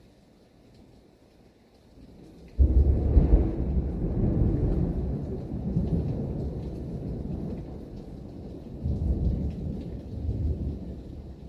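Thunder: a sudden loud clap about two and a half seconds in that rolls on as a long low rumble, swelling again later and slowly fading.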